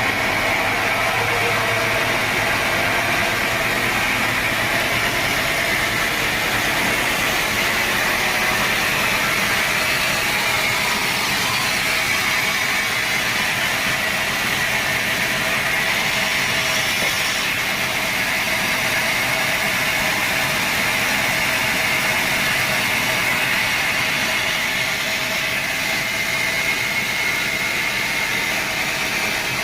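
Sawmill saw machine running steadily, a constant high whine over an even mechanical hum.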